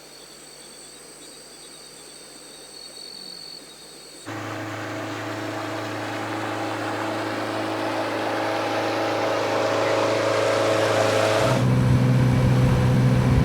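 Forest insects trilling as faint, steady high tones for about four seconds, then a sudden change to a boat's motor running steadily and growing louder; near the end it cuts to a louder, deeper engine hum.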